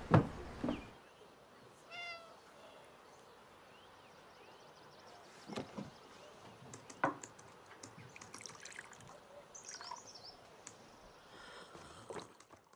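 Quiet ambience with a short animal call about two seconds in, a few knocks, and faint high chirps later on.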